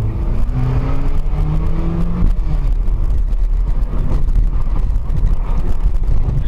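Car engine running with road rumble. The engine note climbs as the car accelerates for about the first two seconds, then gives way to a steady low rumble.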